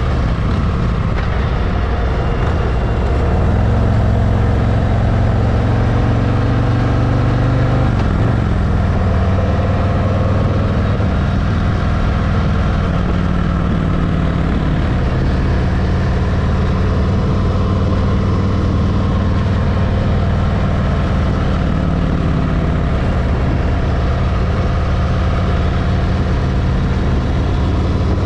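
Harley-Davidson V-twin motorcycle engine running steadily at road speed, its low exhaust note shifting slightly in pitch with the throttle.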